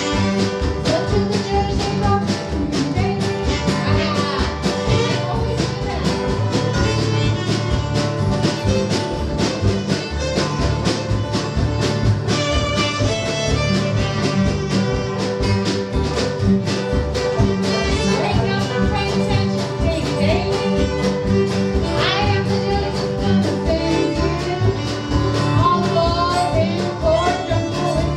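Live country-bluegrass band playing a tune, with fiddle and guitar over a steady beat.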